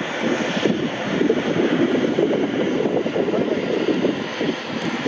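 Airliner engine noise at an airport: a steady, dense rumble with no breaks.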